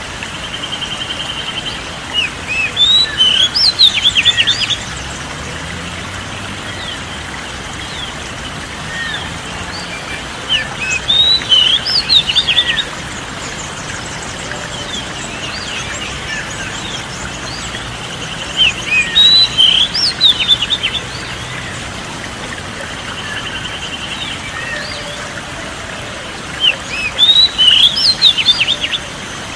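Oriental magpie-robin (kacer) song: bursts of rapid, high whistles and chirps, each two to three seconds long and recurring about every eight seconds. Between the bursts there is a softer buzzing trill over a faint steady hiss.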